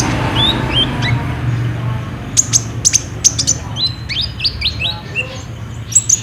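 Kolibri ninja sunbird singing: quick high chirps and short downward-sweeping notes in rapid runs, with a thinner patch in the middle and a dense run near the end, over a low steady hum.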